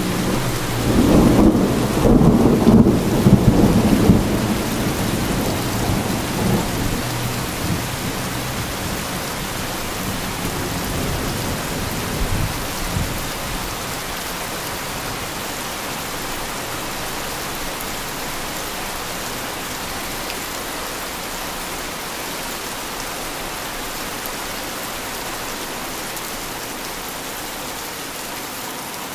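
Steady heavy rain with a roll of thunder that swells about a second in, stays loud for a few seconds, then fades away. A smaller rumble comes near the middle.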